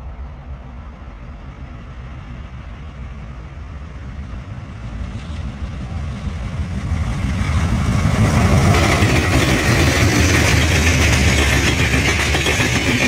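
Passenger train approaching along the track and passing close by. A low rumble grows steadily louder over about eight seconds, then gives way to loud, steady wheel-on-rail noise as the coaches run past.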